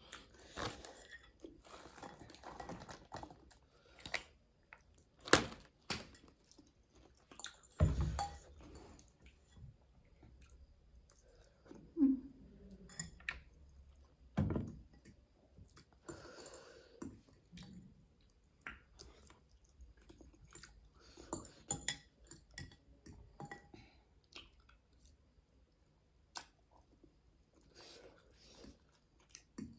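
Close-up chewing and mouth smacking while eating, a steady run of small irregular wet clicks. A few louder knocks stand out, one about eight seconds in and another near the middle.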